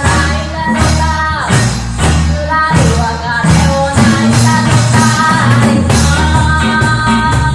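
Live reggae band music with a singing voice over a steady beat and bass.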